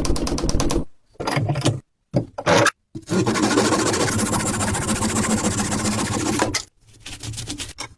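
A small power tool running in several short, abruptly cut bursts: a fast rattle for about the first second, a steady run of about three and a half seconds in the middle, then a fast rattle again near the end.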